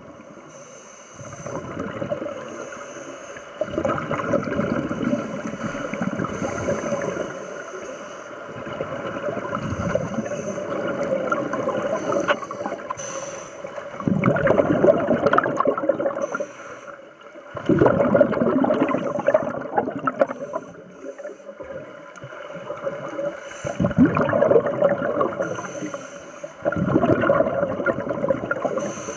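Scuba divers' exhaled bubbles gurgling and rumbling, heard underwater, in surges of a few seconds with quieter gaps between breaths.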